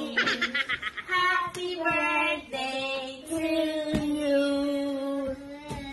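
A young girl singing in a high voice: a fast warbling note at first, then long held notes.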